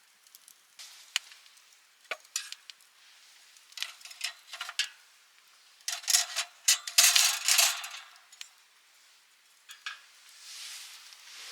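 Light clicks and clinks of objects being handled, with a dense run of scraping and rattling about six to eight seconds in and a soft hiss near the end.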